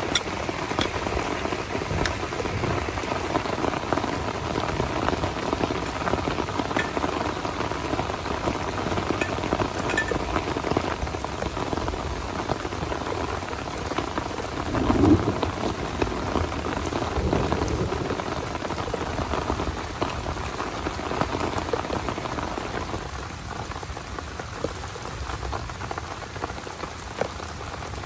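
Heavy rain falling steadily, a dense patter of drops with a brief louder swell about halfway through, easing slightly near the end.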